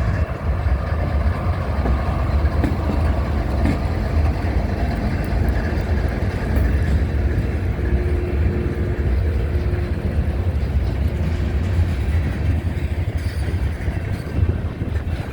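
Freight train cars rolling past with a steady, continuous low rumble.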